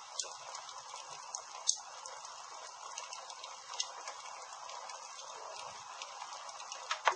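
Wood campfire crackling: irregular sharp pops and snaps over a steady hiss, with the loudest pop near the end.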